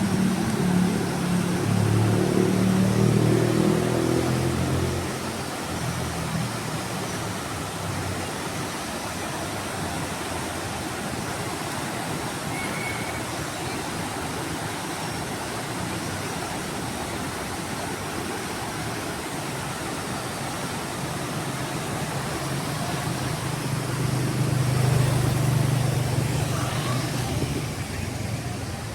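City street traffic: a motor vehicle's engine hum swells for the first few seconds, and another passes about five seconds from the end, over a steady hiss of traffic in between.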